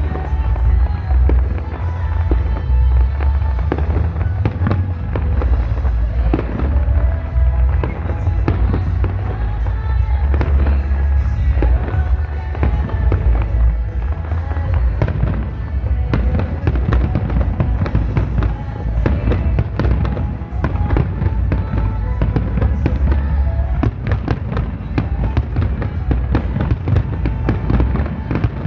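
Finale barrage of aerial firework shells bursting in rapid, continuous succession: deep overlapping booms with dense crackle, with no break.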